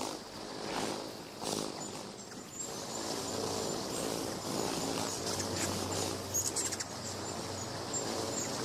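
Natural outdoor ambience: birds chirping over a steady background, with a faint low hum underneath.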